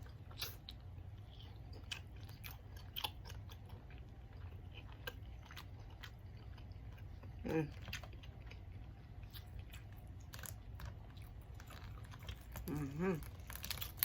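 Close-miked chewing of seafood-boil food: soft wet smacks and small mouth clicks at irregular intervals. There is a short hummed 'mm' about halfway through and an 'mm-hmm' near the end.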